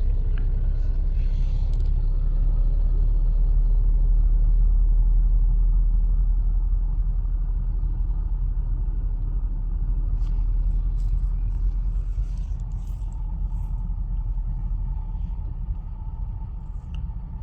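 Steady low rumble of road traffic and the car heard from inside the cabin. It swells to a peak about five seconds in, then slowly eases off, with a few faint clicks midway.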